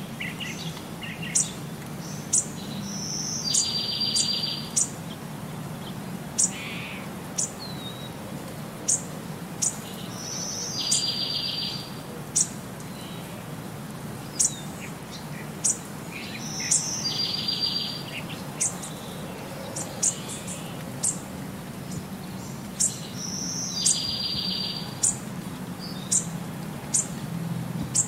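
Birds chirping: short, sharp high chirps about once a second, and a rapid high trill lasting over a second that recurs about every seven seconds, over a low steady hum.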